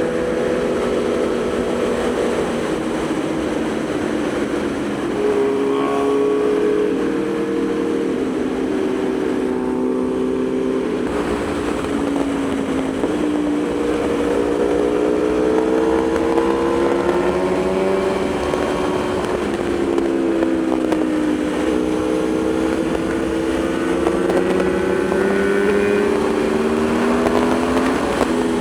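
Aprilia Tuono V4 motorcycle's V4 engine running under way, its pitch rising and falling several times as the rider rolls the throttle on and off, over a steady low rush of wind.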